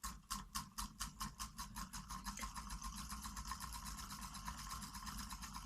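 Homemade solenoid engine running at 11 volts, its plunger and paperclip trigger contact clicking with each stroke. The clicks speed up from about five a second to a fast, even rattle within the first two seconds, then hold steady as the engine reaches speed.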